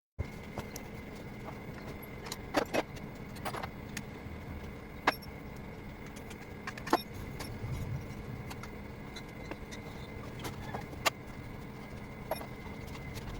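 Scattered sharp metallic clicks and clinks of hand tools, such as a wrench and an Allen key, unbolting a motorcycle's stock exhaust, over a steady low hum.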